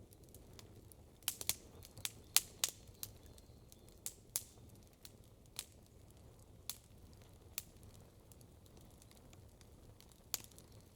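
Wood campfire crackling: a quick run of sharp pops about a second in, then scattered single pops, over a steady low rumble.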